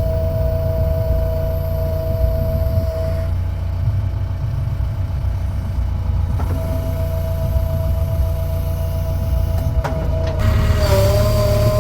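Heavy diesel engine of earthmoving machinery running steadily, a deep rumble with a steady high whine over it; the whine drops out for about three seconds near the middle and comes back, wavering near the end.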